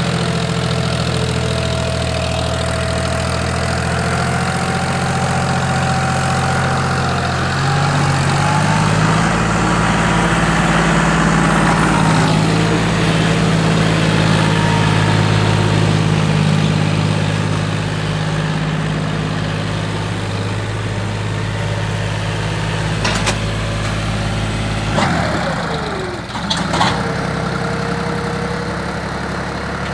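John Deere 5036 tractor's diesel engine running steadily under load, hauling two trolleys. The engine note rises about a quarter of the way in and drops a few seconds before the end, with a few brief sharp sounds around that drop.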